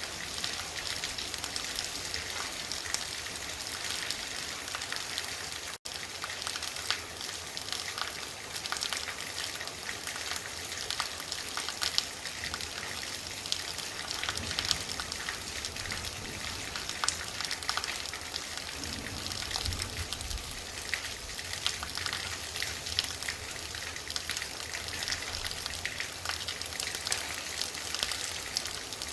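Heavy rain falling steadily, a dense hiss with the patter of many drops hitting surfaces.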